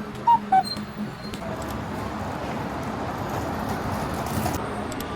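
Steady city street traffic noise. Right at the start, a two-note falling electronic chime sounds twice.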